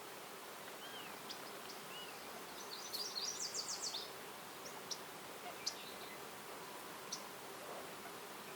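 Small songbirds calling over a steady background hiss of woodland ambience. Two short whistled notes come first, then a fast high trill lasting about a second, followed by a few single sharp high chips.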